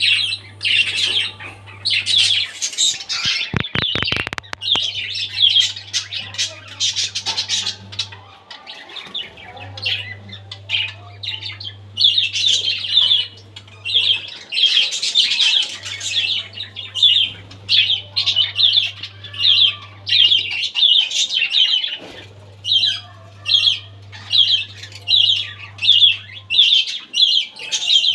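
Budgerigars chirping and chattering in quick, repeated short calls, with a brief run of clicks about four seconds in.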